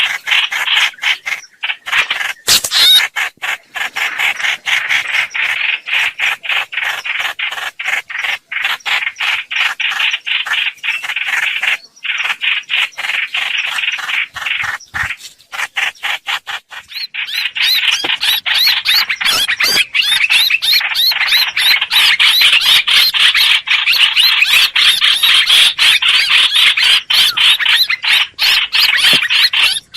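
Lure-call recording of the bird that Vietnamese bird-trappers call hoành hoạch: a continuous run of rapid, chattering notes. The calling becomes denser and louder about halfway through.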